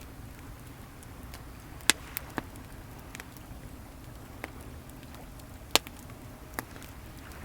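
Wood bonfire crackling with scattered sharp pops, the loudest about two seconds in and again near six seconds, over a steady low wash of waves.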